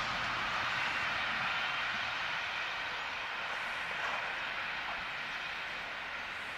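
Passenger train carriages rolling away along the track, a steady rush of wheel-on-rail noise that slowly fades as the train recedes.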